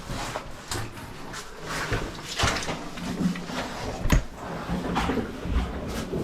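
Rustling and scraping of a caver crawling through a tight rock passage, with clothing and gear rubbing on stone and a few sharp knocks, the loudest about four seconds in.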